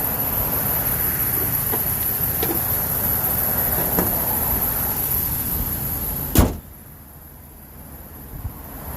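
A single loud slam about six and a half seconds in: a panel of the Ford E350 box truck being shut. It comes over a steady background hiss, which drops away sharply after the slam.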